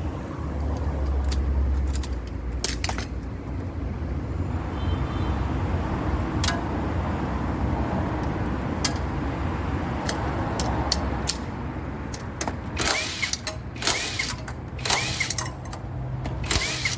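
A motor vehicle running with a steady low rumble. From about three-quarters of the way in there is a run of sharp clicks, knocks and brief squeaks.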